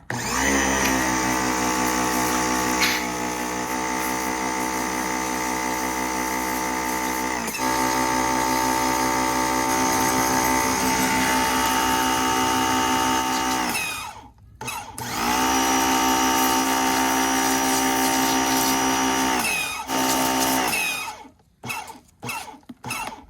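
Pressure washer motor and pump running with a steady whine while it sprays. It stops and winds back up about two-thirds of the way through, then winds down in pitch near the end.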